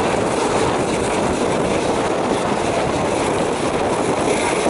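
Steady noise of a moving train heard from on board, the wheels running along the rails.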